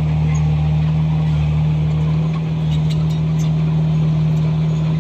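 Komatsu bulldozer's diesel engine running steadily under work, a strong even drone with faint ticks a few times in the middle.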